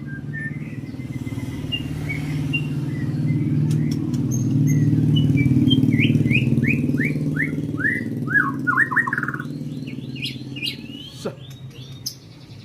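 Songbird singing its 'tembakan': a fast run of about a dozen downward-sweeping notes that step lower and speed up, then a second, higher run of sweeps near the end. A steady low rumble of engine noise runs underneath.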